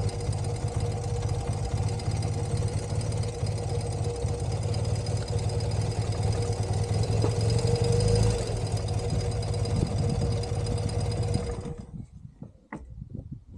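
1983 BMW R100CS's air-cooled boxer twin idling steadily, its carburettor mixture screws freshly adjusted, with a slight rise around eight seconds in; it cuts off suddenly about twelve seconds in.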